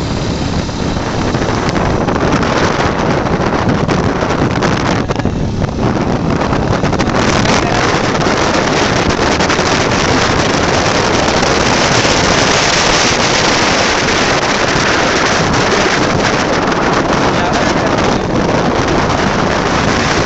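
Loud, steady rush of wind buffeting the microphone on a moving motorbike.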